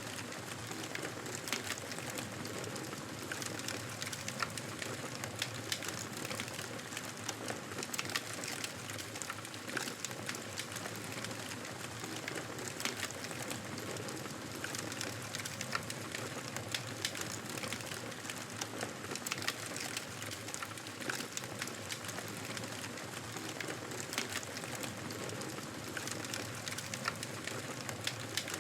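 Wood fire burning in a fireplace: a steady hiss of flames with frequent irregular crackles and pops.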